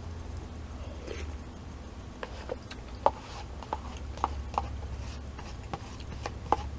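Close-up eating sounds: scattered short wet clicks and smacks of chewing, over a steady low hum.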